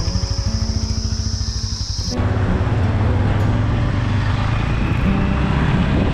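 Motorcycle running on the road, with wind noise on the microphone. The sound jumps suddenly to a louder rumble about two seconds in.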